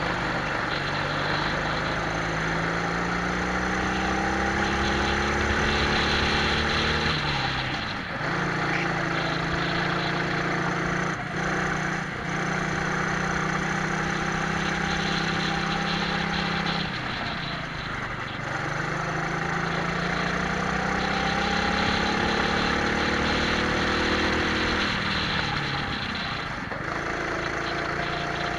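Twin-engine Prokart's engines running hard on track, heard onboard: revs climb steadily for several seconds, hold level through a long stretch, then drop and climb again twice as the kart comes off corners. A steady rush of wind over the microphone runs underneath.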